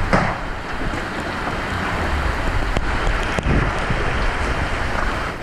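Hailstorm with wind: hail and rain pelting down in a dense, steady hiss, with a few sharper knocks and wind gusting on the microphone.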